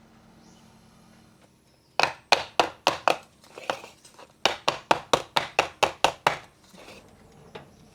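A run of sharp taps or knocks. There are a handful of uneven ones, then about nine even ones at roughly four a second, fading near the end.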